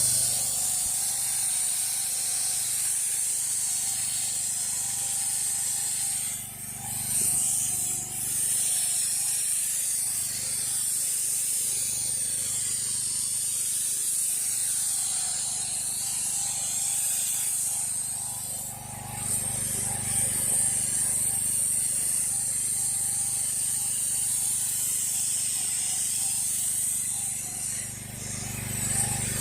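Pressure washer running and spraying high-pressure water onto a concrete driveway, a steady hissing spray over the machine's low hum. The spray briefly dips three times.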